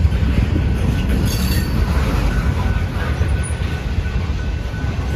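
Freight cars rolling past on the rails in a steady heavy rumble, with a faint thin wheel squeal running through it.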